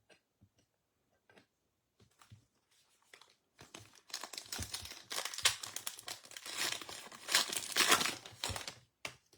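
Wrapper of a baseball card pack crinkling as it is torn open and peeled back, starting about three and a half seconds in and loudest near the end, after a few light clicks of cards being handled.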